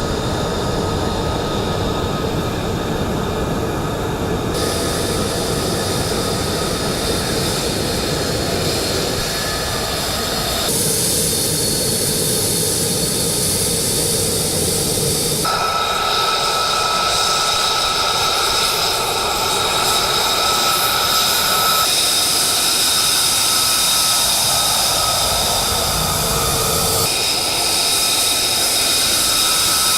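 Single-engine F-35A fighter jet's F135 turbofan running loud: a steady roar with high whining tones. The sound changes abruptly several times, about every five seconds.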